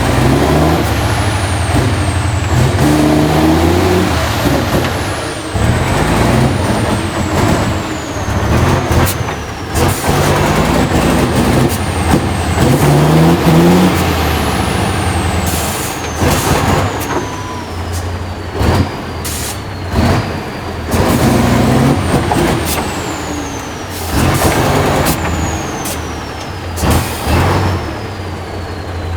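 Tatra 815 6x6 truck's diesel engine revving hard again and again, its note rising with each push, and a high whistle that falls slowly in pitch after each rev. Short sharp noises cut in several times between.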